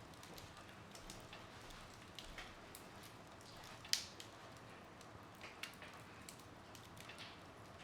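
Wood fire burning in a fireplace: a soft steady hiss with scattered crackles and snaps, the loudest a single sharp pop about four seconds in.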